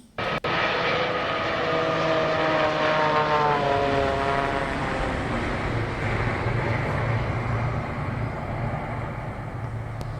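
Ground recording of a Boeing 787 passing close by. Whining tones fall in pitch over the first few seconds above a steady rushing jet noise, then a low rumble builds and eases off near the end.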